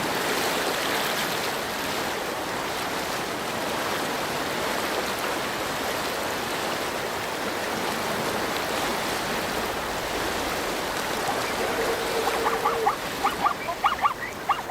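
River water rushing steadily. Near the end, a quick series of short, pitched animal calls sounds over the water.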